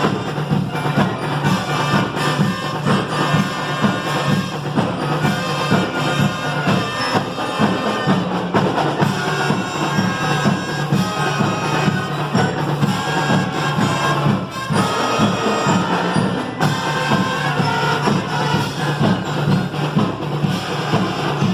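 Marching band playing: melody lines over a steady, evenly pulsing drum beat.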